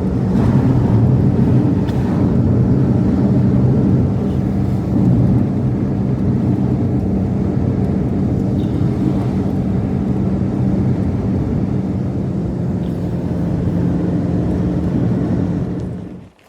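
An engine running steadily at an even pitch, which cuts off near the end.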